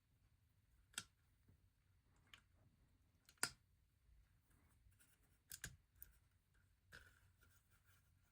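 Scattered clicks and snaps of LEGO bricks and parts being handled and pressed together, about six sharp ones, the loudest a little past three seconds in and a quick pair near five and a half seconds.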